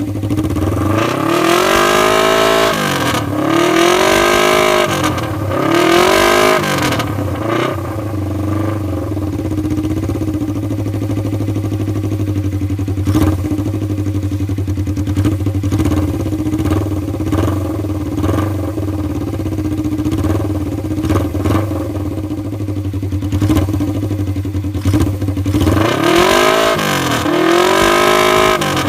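Suzuki GSX250E's air-cooled parallel-twin engine revved with three quick throttle blips, the pitch rising and falling back each time, then idling steadily for most of the time, with two more blips near the end.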